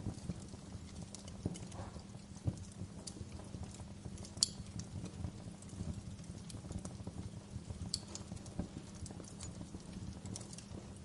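Wood fire crackling in a fireplace: a low steady rumble of the flames under irregular small pops and snaps, with a sharper pop about four seconds in and another near eight seconds.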